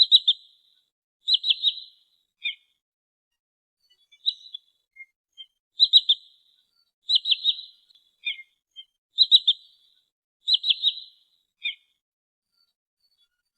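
Sandpiper (trinil sawah) calls from a bird-lure recording: high, sharp calls of three quick notes each, repeated roughly every second, with a single shorter note after several of them and a pause about a quarter of the way in.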